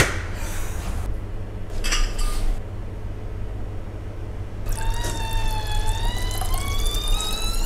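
Beer being pulled from a cask-ale hand pump into a glass. From about five seconds in, the pour rises steadily in pitch as the glass fills, over a steady low hum.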